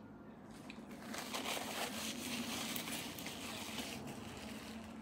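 Crunching of a fried empanada being bitten and chewed close to the microphone, loudest from about a second in until about four seconds in.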